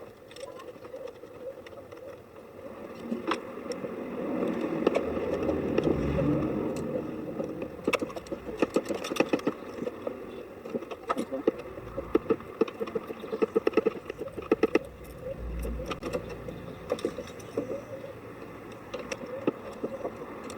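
Tools and parts being handled while refitting a car battery: scattered clicks and knocks, with runs of rapid clicking, over a steady low rumble of background noise.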